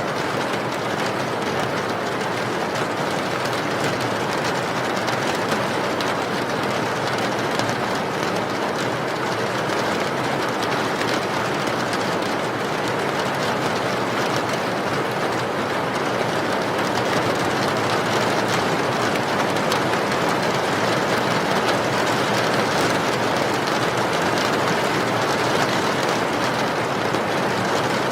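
Steady rain: an even, unbroken hiss that holds the same level throughout.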